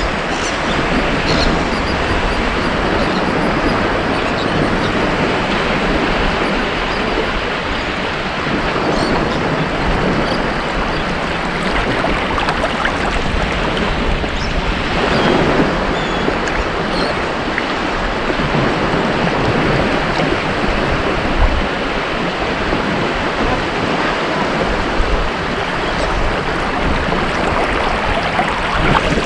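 Ocean surf washing onto a beach, a continuous rush of breaking waves that swells and eases, with one stronger wave about halfway through.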